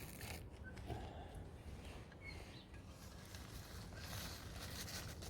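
Quiet outdoor background with a steady low rumble and a few faint, short bird chirps, one a little under a second in and another just after two seconds; a few sharp clicks near the end.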